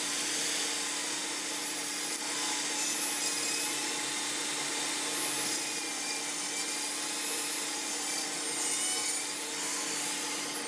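A power tool running with an abrasive rubbing sound over a steady hum, its high whine dipping and rising under load. Near the end it is switched off and its whine falls away as it winds down.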